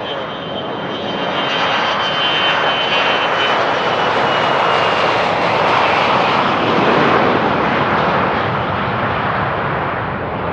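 Gulfstream IV business jet's Rolls-Royce Tay turbofans passing close, a dense jet rush that builds to its loudest about six to seven seconds in and then eases, with a high whine in the first few seconds that fades away.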